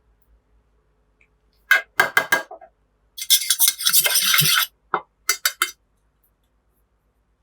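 Kitchen dishes and cutlery clinking: a quick run of sharp clinks, then a longer clattering scrape lasting about a second and a half, then a few more clinks.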